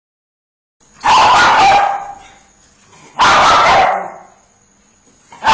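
A dog barking three times, each bark drawn out to under a second, about two seconds apart, the third just at the end.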